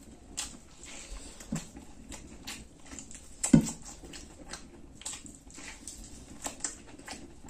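Close-up eating sounds of a man gnawing meat off a cooked buffalo head: wet chewing and lip-smacking clicks at an uneven pace, with one louder thump about three and a half seconds in.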